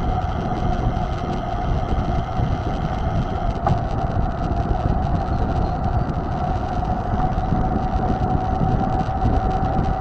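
Wind and rolling noise on a mountain bike's camera as it rides, a steady low rumble with a constant thin high tone running through it.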